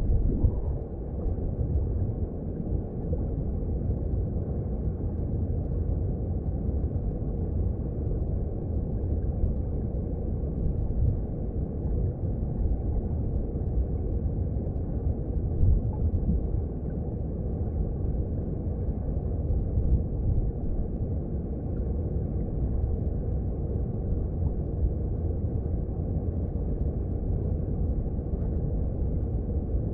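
Mountain stream heard underwater: a steady, muffled low rumble of flowing water.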